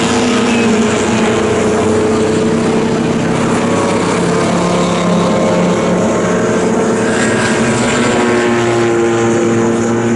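Several historic Formula Junior racing cars running at speed together: a steady, loud engine drone made of several overlapping pitches from more than one engine, shifting slightly as the cars lift and accelerate.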